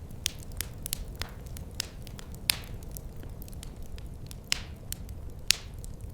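Wood fire in a fireplace crackling, with frequent sharp pops and snaps over a steady low rumble of the flames; the loudest pops come about two and a half and five and a half seconds in.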